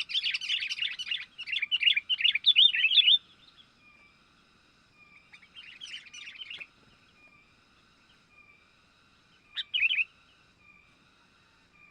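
Sooty-headed bulbul (kutilang) calling in rapid chattering chirps: a loud run of about three seconds, a shorter burst around six seconds in and a brief one near ten seconds. A fainter, evenly repeating call runs underneath.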